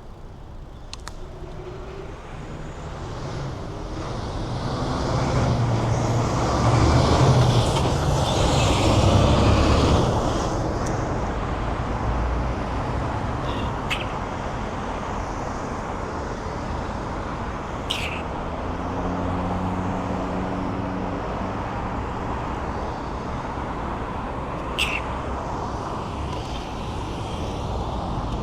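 City road traffic heard from a moving bicycle: a steady wash of passing cars, with one vehicle passing close and loudly about a quarter of the way in. A few short, sharp high sounds come later.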